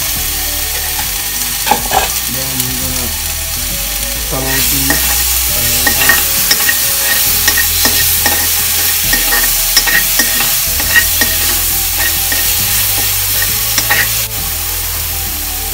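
Onions and ginger-garlic paste sizzling in hot ghee in a wok, with a spoon clicking and scraping against the pan as it is stirred. The stirring clicks come thickest from about four seconds in until near the end.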